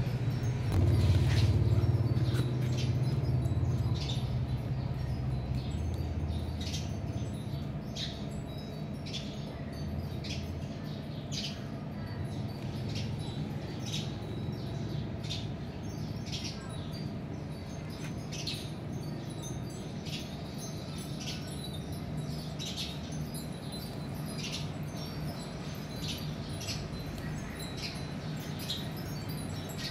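Small birds chirping: short, high chirps repeating irregularly about once a second, over a steady low rumble that is louder in the first few seconds.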